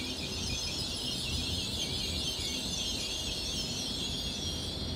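A GWR Hitachi Intercity Express Train giving a loud, high-pitched, wavering metallic screech as it rolls slowly past, over a low rumble. The screech stops abruptly near the end.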